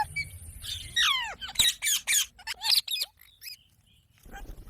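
Parrot giving a quick series of shrill squawks, each sweeping down in pitch, followed by a short pause near the end.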